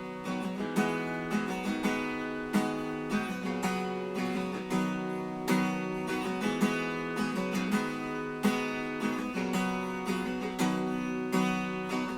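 Credits music: acoustic guitar, plucked and strummed in a steady rhythm.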